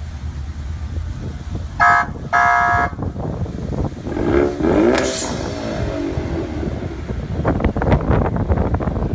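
Mustang police car's engine running with a rough idle. There are two short horn blasts about two seconds in, a rev around four to five seconds, and crackling from the exhaust near the end.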